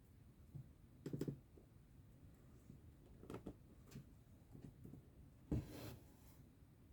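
Soft, quiet clicks and taps of hand cross-stitching, a needle going through the fabric, with a louder brief rustle of thread being drawn through about five and a half seconds in.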